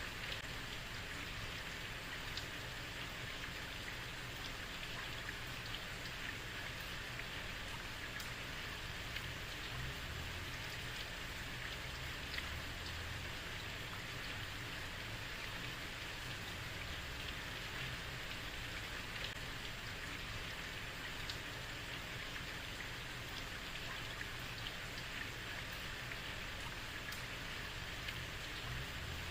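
Heavy rain falling steadily on a street: an even hiss of rain with scattered drop ticks and a low rumble underneath.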